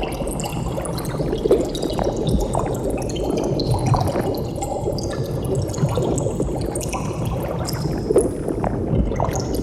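Continuous bubbling of water: many short high-pitched plinks of bubbles popping, over a steady low wash.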